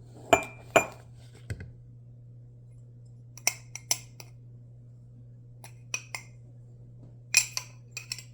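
Scattered light clinks and taps of a measuring cup knocking against the sugar container and dish as sugar is scooped into it, coming in small clusters of two or three.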